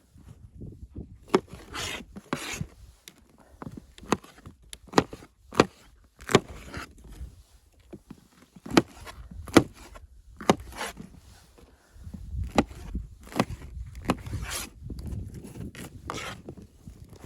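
A series of irregular sharp knocks and short scrapes, roughly one every second, like hard objects being handled; a low rumble comes in about twelve seconds in.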